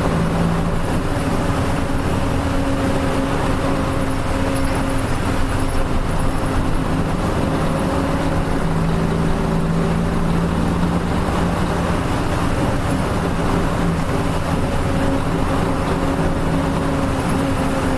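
Nissan Diesel KL-UA452MAN city bus under way at a steady speed, heard from inside the cabin: the diesel engine and drivetrain hum holds an even pitch over road noise. Near the end the pitch eases slightly down.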